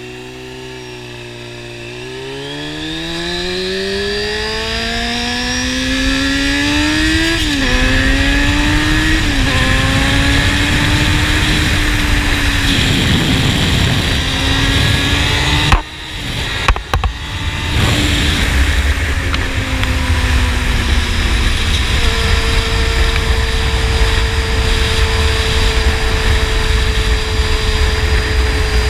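Honda CBR600 inline-four sport motorcycle with an aftermarket slip-on exhaust, accelerating with a rising engine note and two quick upshifts, then cruising at a steady engine speed. Wind noise on the microphone grows as speed builds, and a sharp knock cuts in about sixteen seconds in.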